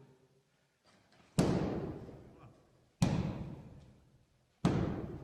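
Three heavy booming impacts, evenly spaced about a second and a half apart, each struck sharply and dying away over a second or so.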